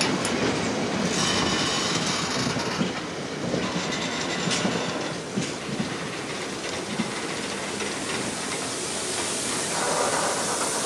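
Freight train of Freightliner Heavy Haul bogie hopper wagons rolling past close by: a steady rumble with wheels clattering over the rail joints and a few sharper clicks.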